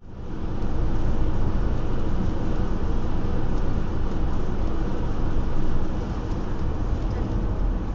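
Car on the move, heard through a dashcam: a steady rumble of engine and road noise that fades in quickly at the start and eases off a little about six seconds in.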